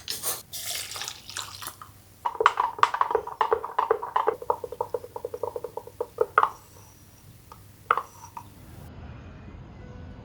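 Kitchen cooking sounds: a short stretch of scraping noise, then a fast run of ringing taps lasting about four seconds, and two single taps a little later.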